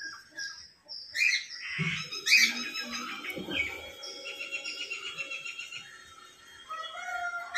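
Birds chirping and calling, with a couple of loud sweeping calls about two seconds in and a fast, evenly repeated trill in the middle.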